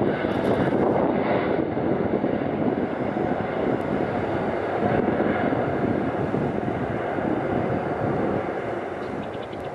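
Jet airliner's engines at takeoff thrust: a steady rushing drone that slowly fades as the aircraft moves away.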